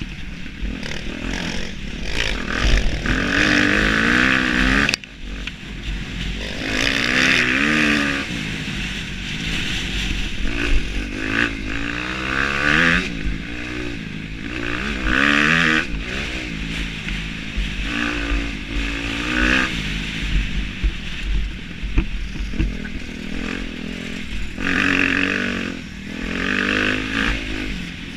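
Motocross bike engine ridden hard, its pitch rising and falling again and again with the throttle and gear changes. About five seconds in the sound briefly drops out.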